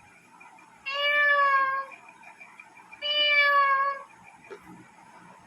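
A man imitating a cat with his own voice: two drawn-out meows of about a second each, the second about two seconds after the first.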